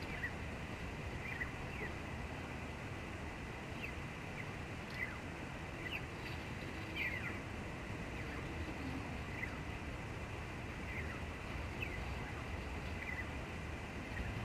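Sparrows chirping: a dozen or so short, scattered chirps, many dropping in pitch, over a steady low rumble.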